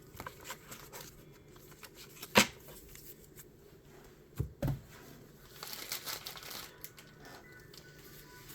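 Pokémon card pack packaging being handled and opened: plastic and foil crinkling and tearing, with a sharp click a little over two seconds in and two soft thumps about two seconds later.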